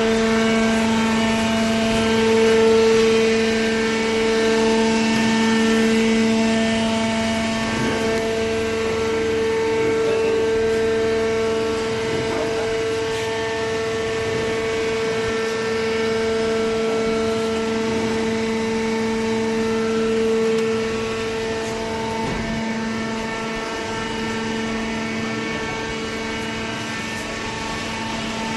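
Automatic horizontal waste carton baler running: a steady motor-and-hydraulic-pump hum with a strong held tone and its overtones over mechanical noise. About three-quarters of the way through, the upper tone fades and the machine gets slightly quieter.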